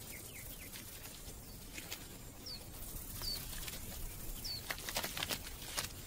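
Faint outdoor ambience with a small bird giving three short, high chirps about a second apart, and a few soft clicks and scrapes in the second half.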